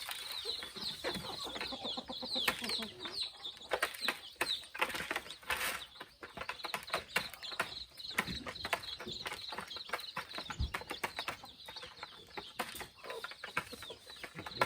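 Chickens clucking and calling, with many short high-pitched calls and a dense patter of short clicks.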